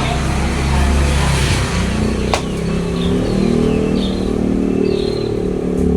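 A motor vehicle's engine runs close by and is loudest in the first two seconds, then goes on as a steady lower hum. Sparrows chirp in short calls about once a second, and there is one sharp click a little after two seconds in.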